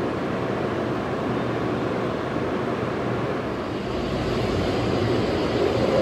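N700S Kamome Shinkansen train starting to move along the platform: a steady hum and rush of noise that gets louder and deeper about four seconds in.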